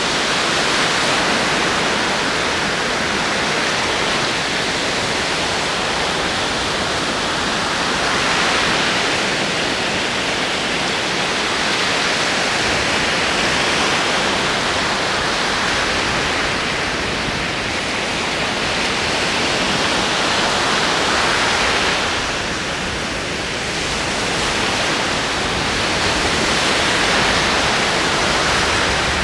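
Ocean waves rolling in: a continuous wash of surf that swells and eases slowly every several seconds.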